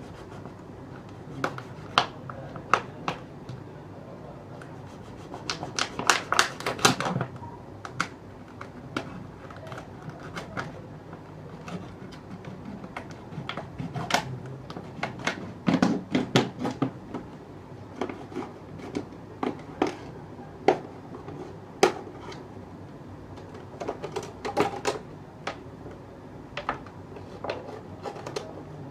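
Plastic bottle being handled and worked by hand: irregular sharp clicks, taps and crinkles, bunched into brief flurries a few times.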